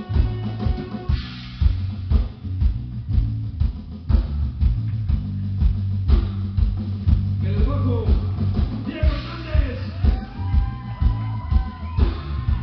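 Rock band playing live: drum kit and bass guitar pound out a steady beat under guitar. About halfway through, a melodic line that bends in pitch comes in.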